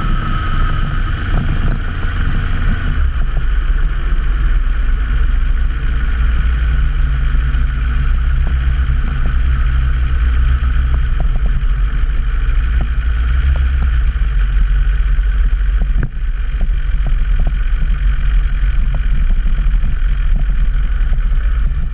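Motorcycle engine running steadily while riding, its low hum dropping in pitch about three seconds in, with a brief dip in level about sixteen seconds in.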